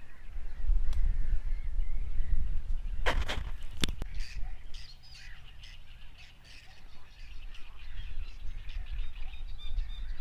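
Birds calling faintly over a steady low rumble, with two sharp knocks about three and four seconds in.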